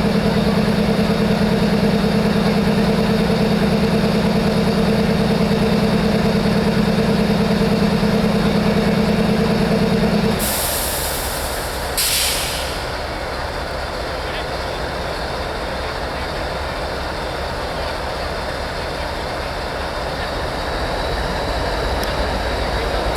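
Train at close range: a steady diesel engine hum that cuts off suddenly about ten seconds in, then two short hisses of air a second apart, then a quieter, even rail rumble.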